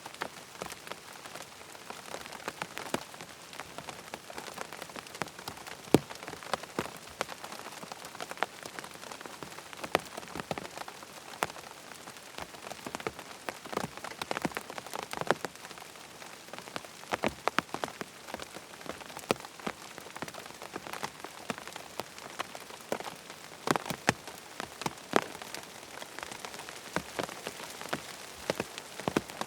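Rain falling on a tent: a steady patter with many individual drops ticking sharply at irregular intervals.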